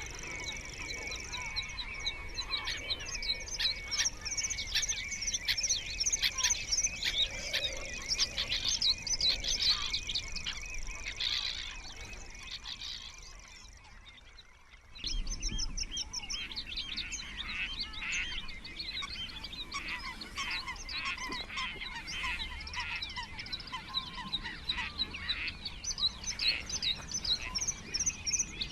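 Several small birds singing together in a busy, continuous chorus of quick chirps and trills. It fades away about halfway through, then starts again suddenly at full level.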